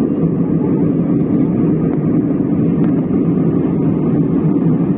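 Steady cabin noise of an airliner in cruise flight: the even, low rush of engines and airflow heard from inside the passenger cabin.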